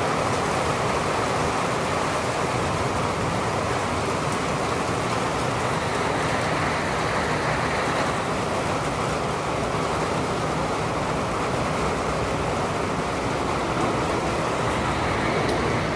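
Steady rain falling in a city, an even hiss with traffic noise from wet roads blended in.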